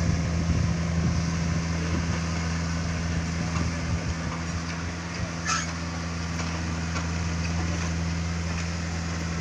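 Takeuchi TB150 mini excavator's diesel engine running steadily, with a brief hiss about five and a half seconds in.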